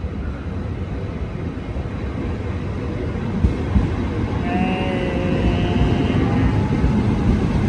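SRT Red Line electric commuter train pulling into the platform: a steady rumble that grows louder, joined about four and a half seconds in by high whining tones from the train's motors or brakes.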